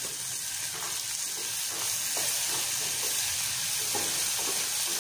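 Chopped tomato and onion sizzling in hot oil in a pan, a steady frying hiss, stirred now and then.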